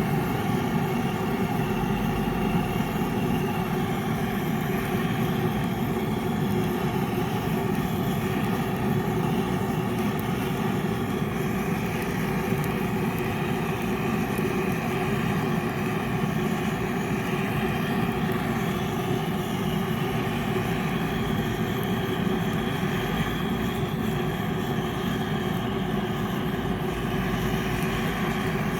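Handheld gas torch flame burning with a steady rushing noise and a constant hum, unbroken and even in level.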